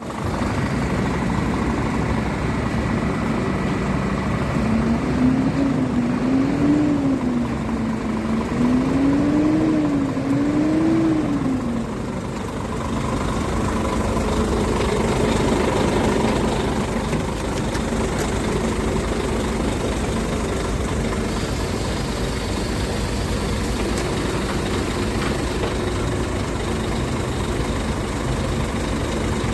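Scania R440 tractor unit's 13-litre six-cylinder diesel engine idling, revved up and back down four times in quick succession from about five seconds in, then settling back to a steady idle.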